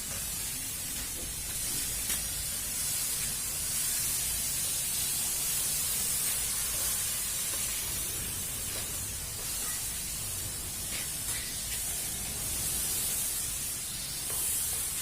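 Mosquito fogging machine running, giving a steady hiss of spraying fog with a low rumble underneath.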